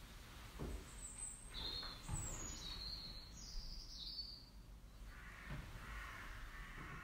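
Faint bird song: a few short, high, whistled phrases that slide in pitch between about one and four seconds in, then softer twittering near the end, with a couple of soft low thuds.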